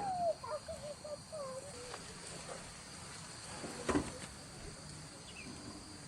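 Night insects, crickets, chirring steadily at a high pitch. Over the first two seconds a wavering animal call falls in pitch, and about four seconds in there is a single knock.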